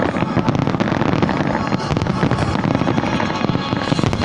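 New Year's fireworks going off in quick succession: a dense, continuous crackle of many bangs and pops with no gap.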